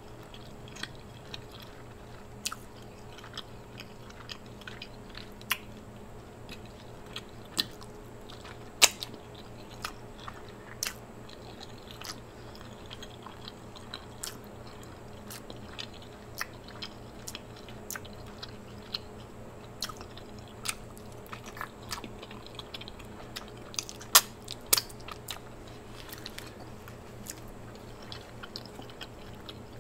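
Close-miked chewing and eating of seafood: wet mouth sounds with scattered short sharp clicks and smacks, a few of them louder, over a faint steady hum.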